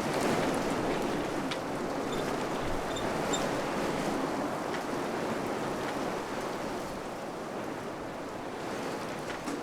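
Wind blowing steadily, an even rushing noise that eases slightly after about six seconds. A few faint, short high peeps sound in the first few seconds.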